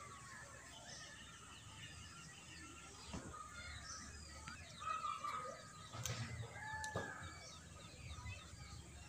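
Faint outdoor birdsong: several birds chirping and calling, with a few short knocks near the middle.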